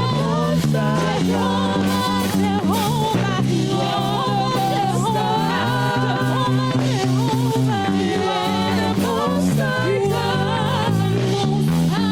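Gospel worship music: a band holding slow, changing chords with singing wavering over them.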